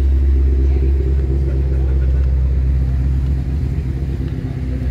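Steady low engine rumble of an idling motor vehicle, easing slightly in the second half.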